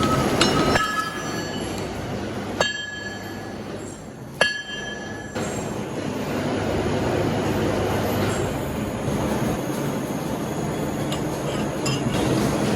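Metal lathe work: three sharp metal clanks in the first few seconds, each ringing briefly, then the lathe running with a steady grinding, squealing noise that grows a little louder.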